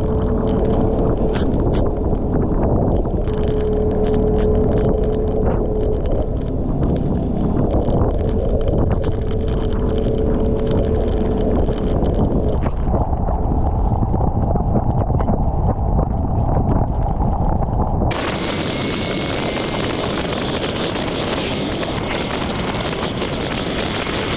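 Wind rushing over the microphone of a moving motor scooter, with its engine running underneath. About 18 seconds in, the sound changes abruptly to a brighter, steadier rush.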